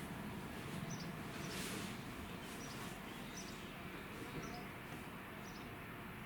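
Faint outdoor ambience: a small bird gives short, high chirps about once a second over a low, steady rumble.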